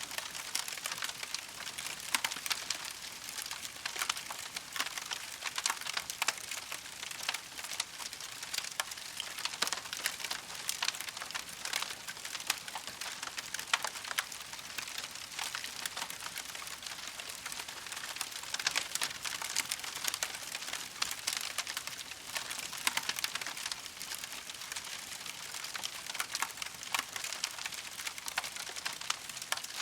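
Campfire crackling steadily: a dense stream of small pops and snaps over a light hiss, with occasional louder snaps.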